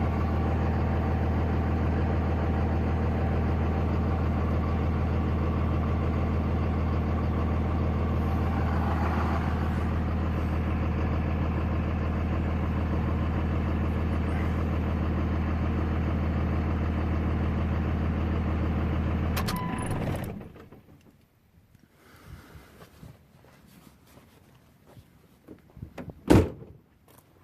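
Diesel truck engine idling steadily, then shut off about two-thirds of the way through, the sound dying away within a second. After that only faint small noises and one sharp click near the end.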